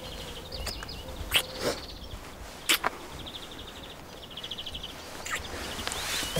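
Outdoor ambience with small birds giving short, fast, buzzy trills several times over, and a few sharp clicks.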